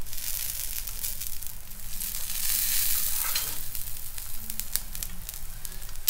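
Uttapam batter frying in oil on a hot tawa: a steady sizzle with scattered crackles, swelling a little about halfway through.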